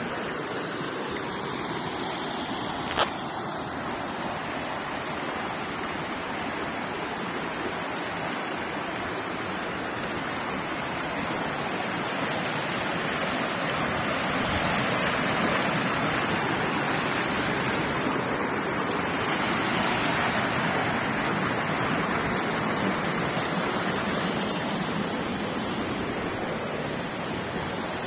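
River water rushing over a bedrock channel worn into potholes, a steady noise that grows a little louder about halfway through. A single sharp click about three seconds in.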